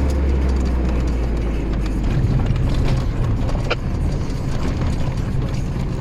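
Engine running and the cab rattling and clicking as a GAZelle truck rolls slowly over a rutted, worn road, heard from inside the cab. The engine note steps up about two seconds in.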